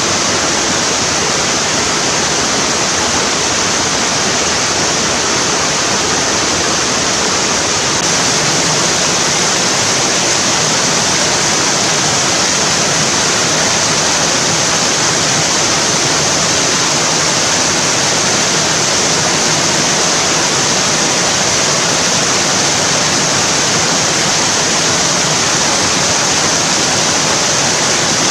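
Mountain stream rushing steadily over rocks in a moss-covered valley, a loud, even hiss of water with no breaks.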